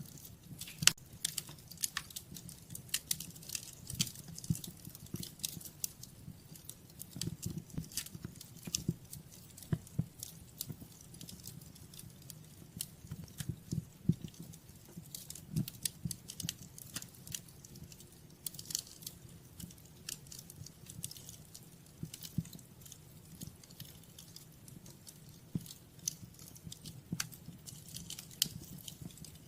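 Wood fire in a fireplace crackling, with frequent irregular sharp pops over a steady low rumble of flames.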